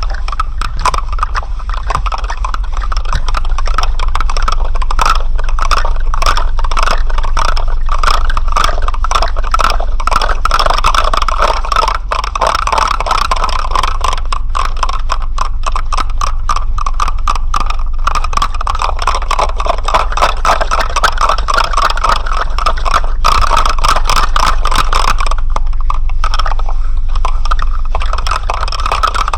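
Dense, continuous rattling: a rapid stream of small clicks over a steady low hum. It thins out briefly a few seconds before the end.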